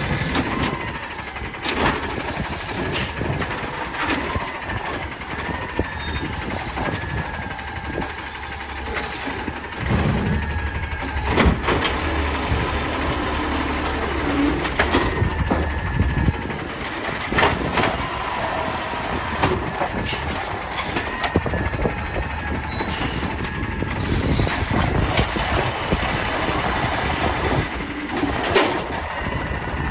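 Peterbilt 320 garbage truck with an Amrep automated side-loader working its route: the diesel engine runs throughout, with scattered clanks and knocks and a heavier engine rumble from about 10 to 16 seconds in.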